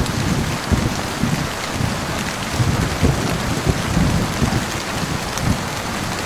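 Steady rain falling in a thunderstorm, with a low rumble of thunder rolling underneath.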